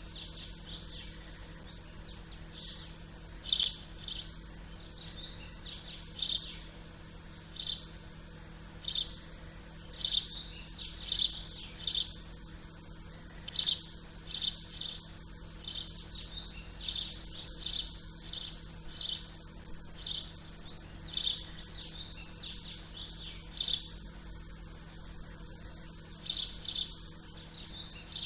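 Small songbirds chirping: short, high chirps repeated about once a second, beginning a couple of seconds in, over a faint steady low hum.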